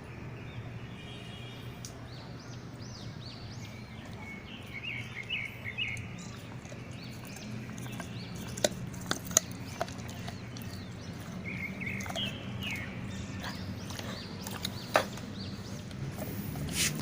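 A dog chewing a raw pork foot, with a few sharp cracks of crunching bone, over a steady low hum. Short runs of bird chirps come twice, about five seconds in and again about twelve seconds in.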